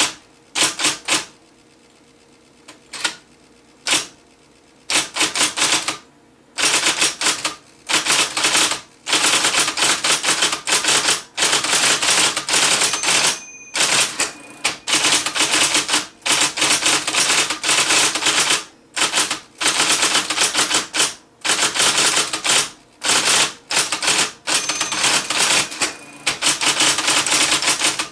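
IBM Selectric III electric typewriter being typed on, its typeball striking in rapid keystrokes. A few short bursts come first, then near-continuous fast typing broken by brief pauses. A faint steady motor hum is heard in the gaps during the first few seconds.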